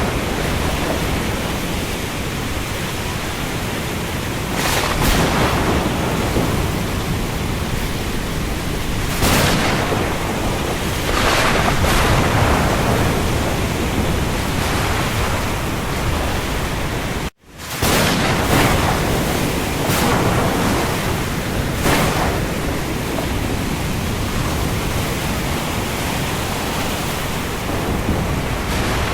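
Steady rain falling on the open sea, with waves surging up every few seconds. The sound drops out for a split second about seventeen seconds in.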